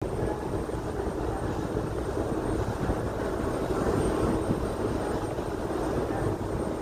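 Aircraft engine noise: a steady, even rumble that holds its level throughout.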